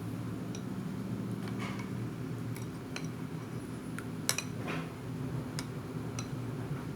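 A spoon or cutlery clinking lightly against a dish or cup in a dozen or so scattered taps, the loudest a little past halfway, over a steady low hum.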